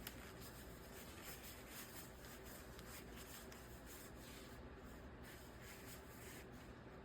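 Near silence with faint, irregular scratchy rubbing or rustling for the first few seconds, fading near the end.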